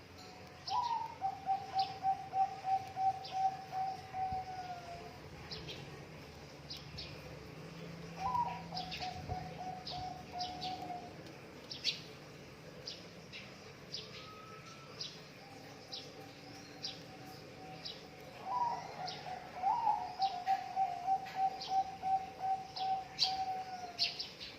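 Zebra dove (perkutut) cooing: a rising opening note runs into a long, rapid string of soft repeated coos, given three times, with two birds overlapping near the end. Small birds chirp in short, high-pitched notes throughout.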